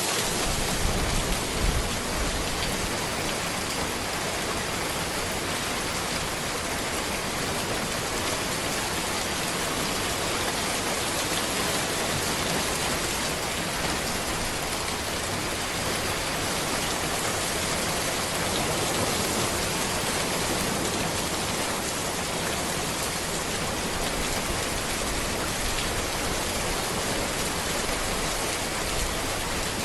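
Steady rain falling on a road, an even, dense hiss of drops, with a few brief low thumps in the first couple of seconds.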